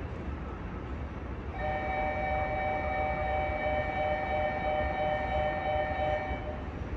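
Seoul Subway Line 9 train at a station platform, running with a low rumble. About a second and a half in, a steady two-note tone starts, holds for about five seconds and then stops.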